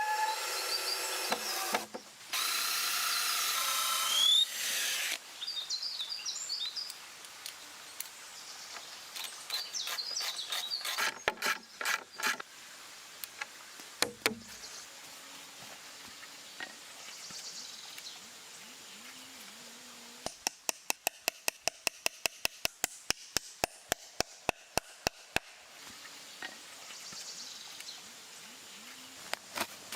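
Power tool work on wood: a loud steady tool noise in the first few seconds, scattered knocks, then a quick run of sharp taps, about five a second, for some five seconds past the middle.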